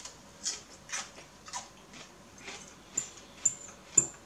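A person chewing a bite of raw celery stalk with crisp crunches, about two a second, with a few sharper, louder clicks near the end.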